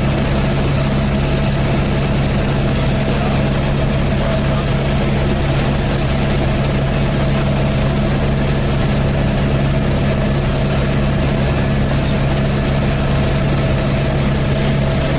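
Helicopter cabin noise: the engine and rotors running with a steady, even drone and low hum.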